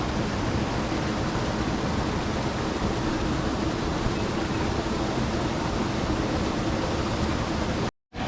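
Small waterfall on a forest stream, its water rushing as a steady, even hiss. It cuts out abruptly for a split second near the end.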